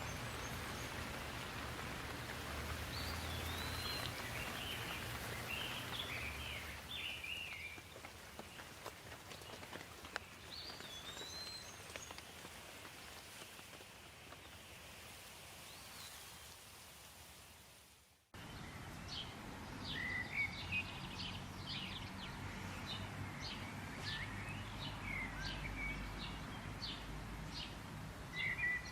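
Steady rain falling with birds calling over it. The sound fades out about two-thirds of the way through and comes back with a busier run of short, repeated bird chirps over the rain.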